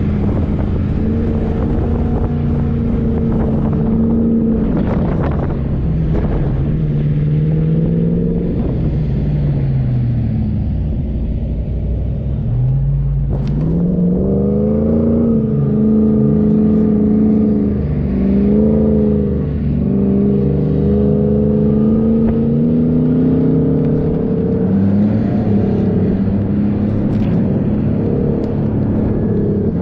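A 4x4 vehicle's engine revving up and down, its pitch rising and falling again and again under varying throttle. The revs drop off for a couple of seconds near the middle, then climb again.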